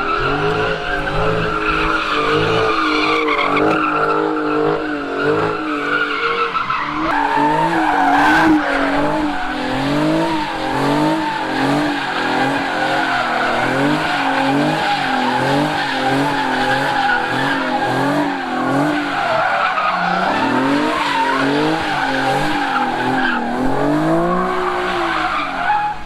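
Car tyres squealing in one long continuous skid, with the engine revving up and down in quick repeated swells.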